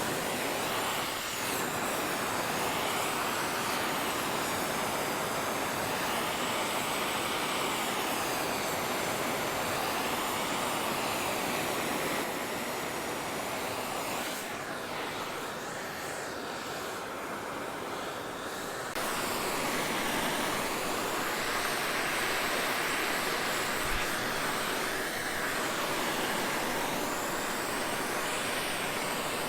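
Oxy-acetylene torch flame hissing steadily while preheating a thick aluminum part for welding, its tone sweeping slowly up and down. The hiss drops a little in level about halfway through, then comes back.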